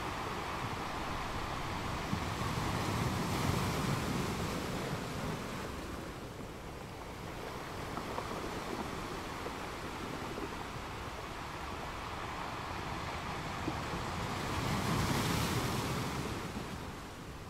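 Steady rushing of moving water in a reef aquarium, swelling louder twice: a few seconds in and again near the end.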